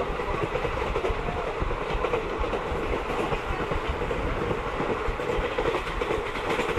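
Moving Mahamana Express passenger train: wheels running on the rails with a steady rumble and a faint clatter.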